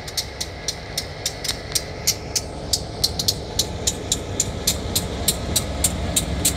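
A train with its low rumble slowly building. Sharp, evenly spaced clicks, about three or four a second, sit over the rumble and are the loudest sound.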